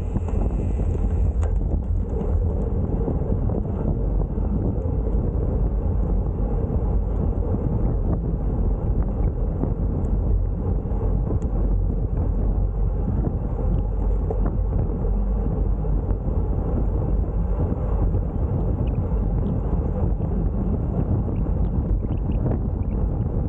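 Steady wind rumble on the microphone of a camera carried on a moving bicycle, low and even throughout.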